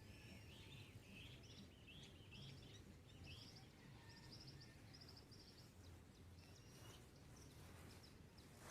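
Faint dawn birdsong: birds chirping, with a series of short, quick repeated high notes in the first half, over a low steady background rumble.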